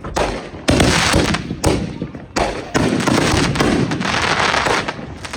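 Consumer fireworks going off: several sharp bangs in the first three seconds, with dense crackling between and after them.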